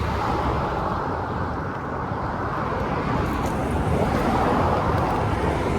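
Steady road traffic noise, an even rushing hum that swells slightly and holds without a break.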